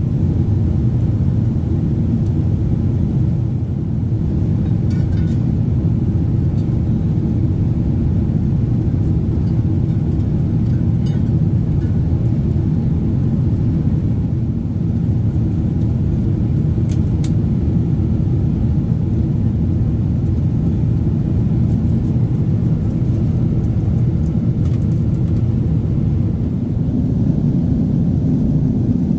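Steady low rumble of a Boeing 777-300's cabin noise: engines and airflow heard from inside the economy cabin, with a few faint clicks.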